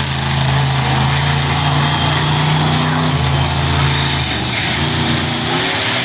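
Monster truck engine running loudly at a steady pitch, then revving about four seconds in, its pitch shifting up and down.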